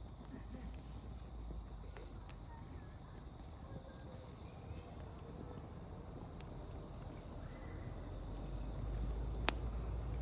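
Insects trilling steadily in rapid pulses over the soft background of an open wood fire, with a few sharp pops of burning firewood, the loudest about nine and a half seconds in.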